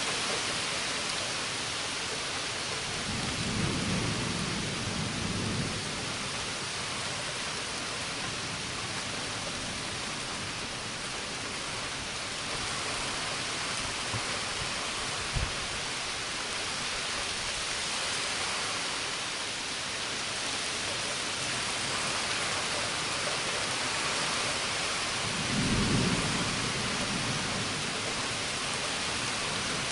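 Steady heavy rain hissing throughout a thunderstorm, with thunder rumbling low twice: a few seconds in and again near the end. A single sharp tap sounds about halfway through.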